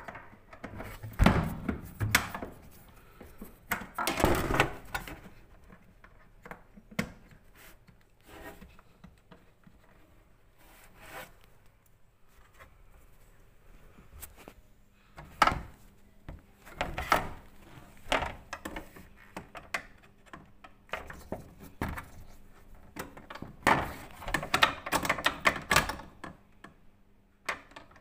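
Irregular clicks, knocks and rubbing of dishwasher parts being handled during work on the drain pump, in busy clusters with short pauses between.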